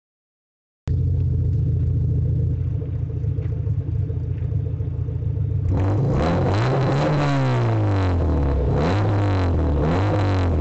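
VAZ-21099 inline-four engine breathing through an aftermarket sport exhaust: it sets in about a second in at a steady idle, then from a little past halfway is revved repeatedly, the pitch rising and falling with each blip of the throttle.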